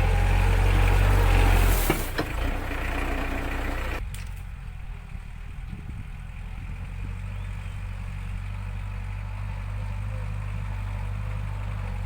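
ISEKI NT554 tractor's diesel engine running steadily while plowing, louder in the first two seconds with a few sharp knocks around two seconds in. About four seconds in the sound turns suddenly duller and quieter, the engine hum going on underneath.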